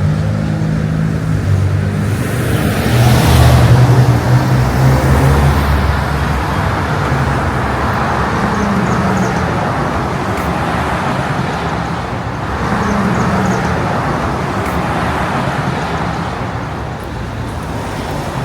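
City street traffic: cars passing steadily, with a heavier vehicle's engine rumbling past loudest about three to five seconds in, and further vehicles swelling past later.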